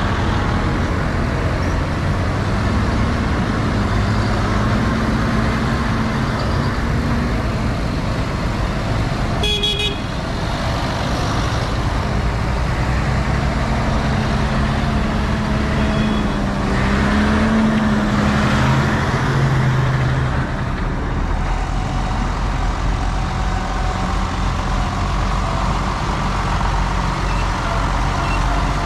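Tractor engines running steadily on the road run, with a short horn toot about ten seconds in. The engine sound swells for a few seconds after the middle.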